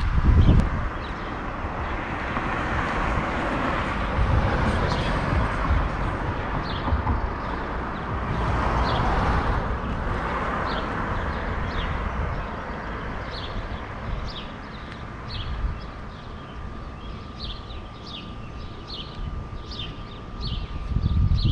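Outdoor ambience of wind rumbling on the microphone with a broad rushing that swells about nine seconds in, and a bird chirping over it. Its short falling chirps come more often in the second half, where a faint steady high tone also joins.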